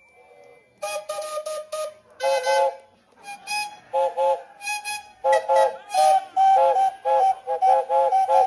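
Steam locomotive whistle sounded in a quick run of many short toots, the pitch stepping between a few notes like a tune, with a hiss of steam on each toot.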